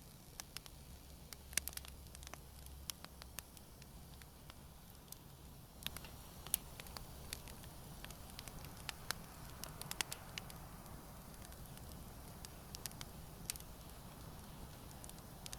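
Wood campfire burning gently: irregular sharp crackles and pops over a low steady hiss and rumble of the flames.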